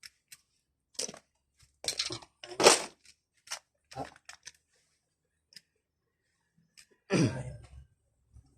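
Hand tools and small parts being handled during a car window regulator repair: a series of short scrapes and clicks, with a longer scrape near the end.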